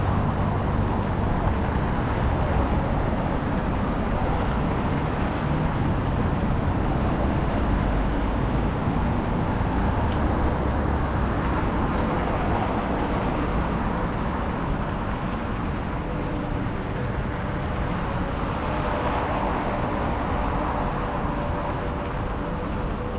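Steady city street ambience dominated by passing road traffic, an even rumble without any single standout event.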